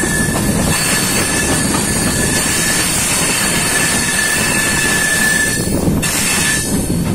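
Indian Railways express passenger coach running at speed, heard at its open doorway: a steady rumble of wheels on the rails with a thin high wheel squeal that strengthens toward the middle and drops away near the end.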